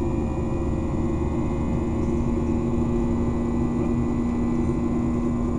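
CFM56-7 turbofan engines of a Boeing 737-800 heard from inside the cabin on the climb: a steady drone carrying the fan's buzzsaw tones, its strongest low hum creeping slightly up in pitch.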